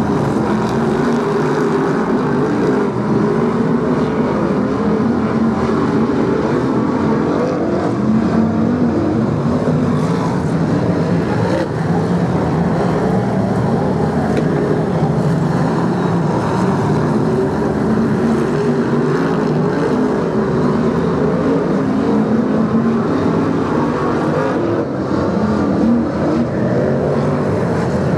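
BriSCA F1 stock cars' V8 engines running flat out as the pack races round the oval, a steady continuous mass of engine noise.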